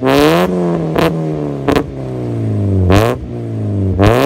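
Engine of a 1996 1.8-litre car breathing through a Manzo cat-back exhaust, with stock headers and catalytic converter, revved in about five quick throttle blips, each rising sharply in pitch and dropping back to idle.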